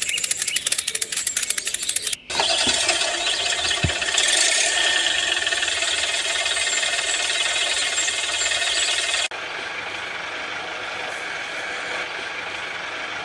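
A vehicle engine starting: about two seconds of rapid clicking cranking, a brief break, then the engine catches and runs steadily. About nine seconds in the running sound drops suddenly to a lower, steadier level.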